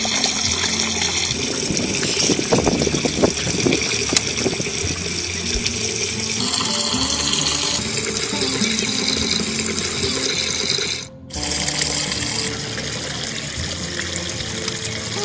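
Steady running water under background music, with a brief cut-out about eleven seconds in.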